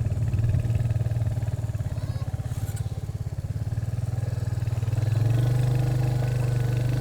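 Motorcycle engine pulling the bike up a steep dirt hill. The note throbs unevenly at first, then about five seconds in it rises and settles into a louder, steadier drone.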